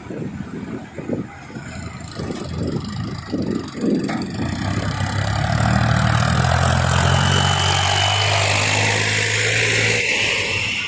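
Massey Ferguson tractor's diesel engine working under load, hauling a trolley fully loaded with sugarcane. At first it chugs unevenly; about four seconds in the revs come up and it holds a loud, steady drone.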